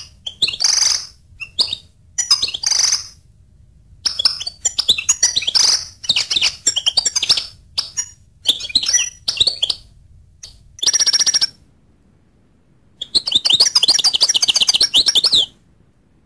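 Goldfinch singing: phrases of fast twittering and chirping notes with short pauses between them, a buzzy trill about eleven seconds in, and a long rapid run of notes near the end.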